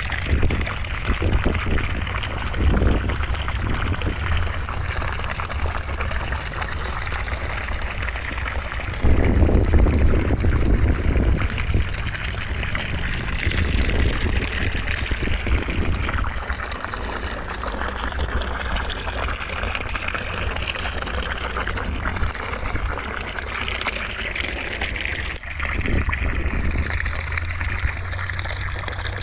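Continuous rushing white noise with a gushing-water character and a deep rumble underneath; the hiss slowly wavers in tone and swells louder for a few seconds about nine seconds in.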